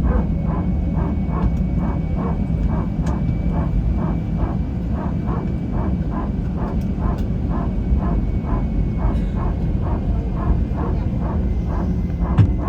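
Airbus A321 cabin noise: a steady low engine rumble with a faint steady whine, and a regular knocking about three times a second. A sharper click comes near the end.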